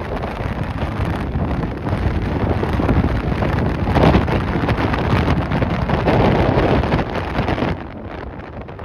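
Strong, gusty wind buffeting the microphone, with surges about four and six seconds in and a drop in level near the end.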